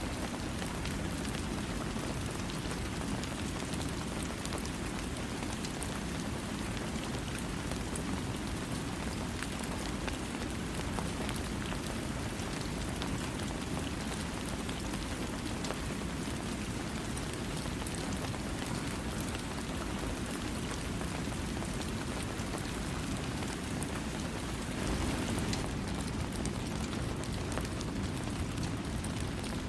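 Steady rain falling, a dense even wash of sound with individual drops ticking through it. About 25 seconds in it briefly grows a little louder.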